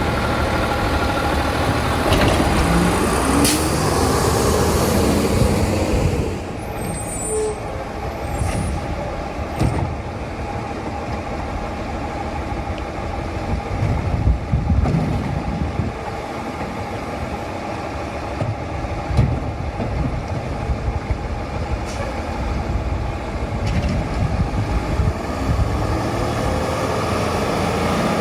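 Autocar side-load garbage truck's diesel engine running, with pitch rising and falling over the first six seconds before it settles lower, and rising again near the end. Scattered knocks and air brake hisses over it.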